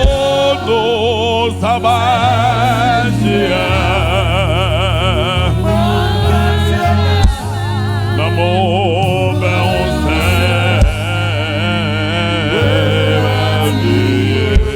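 Gospel worship music: singers holding long notes with a wide vibrato over a loud, steady bass and keyboard.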